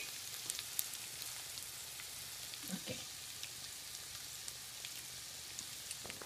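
Spaghetti with vegetables and crab sticks sizzling steadily in a pan, with scattered small crackles and pops.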